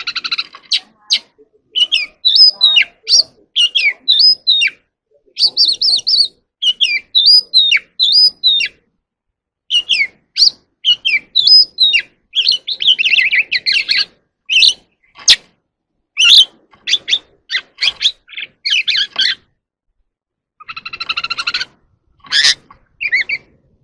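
Oriental magpie-robin singing: a loud run of varied whistled, sliding and chattering notes in phrases broken by short pauses, with a harsh buzzy note near the end.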